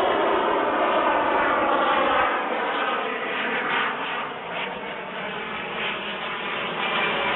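Turbine engine of a radio-controlled model jet, a continuous jet roar with a gliding whine, loudest at first, easing off in the middle and building again near the end as the jet passes.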